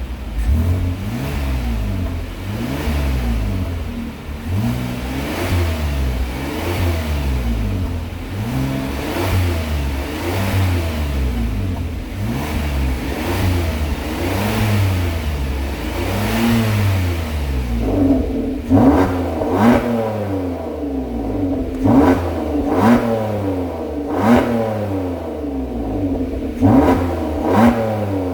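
Hyundai Palisade with a custom variable exhaust, the engine revved over and over while standing still, each rev rising and falling in pitch about every one and a half to two seconds. About two-thirds of the way in, the revs turn into quicker, sharper and louder blips.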